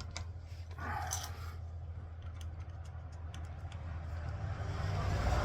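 Scattered light metallic clicks and taps from steering joint parts and tools being handled, over a steady low hum. Near the end a passing vehicle's noise swells up.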